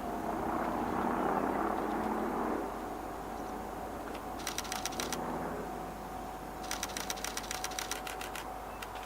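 A diesel-locomotive-hauled train going by, with engine and running noise loudest for the first two or three seconds and then dying down. Two short spells of rapid, even clicking follow, the second near the end.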